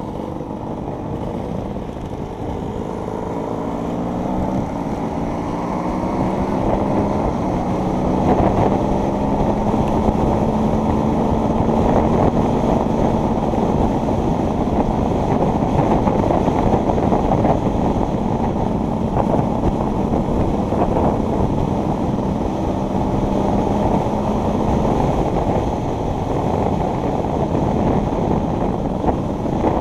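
Enduro motorcycle engine under way, rising in pitch and loudness over the first several seconds, then held at a fairly steady pitch.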